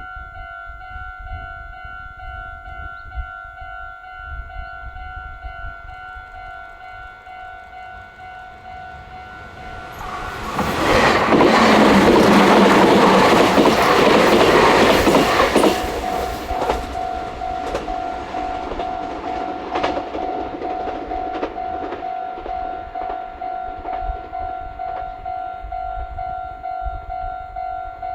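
Japanese level-crossing warning bell ringing steadily while a Meitetsu electric train passes at speed, loud for about five seconds starting some ten seconds in. Afterwards the wheels go on clicking over the rail joints more quietly.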